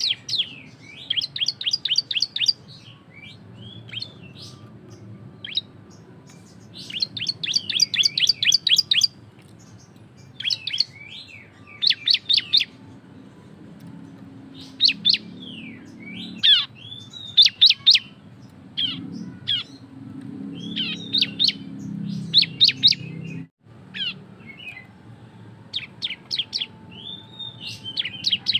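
Bar-winged prinia (ciblek) singing its loud 'ngebren' song: rapid bursts of sharp, downslurred chirps, each burst lasting about a second, repeated every few seconds with short single calls between them.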